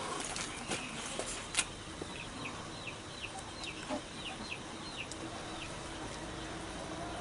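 A bird calling a quick run of about ten short chirps, each falling in pitch, at roughly two to three a second, with a few sharp clicks in the first couple of seconds.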